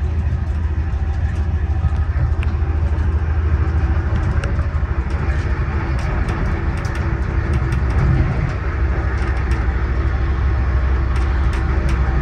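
Amtrak Amfleet passenger coach running at speed, heard from its rear vestibule: a steady low rumble of wheels on rail, with scattered light clicks and rattles, more of them in the second half.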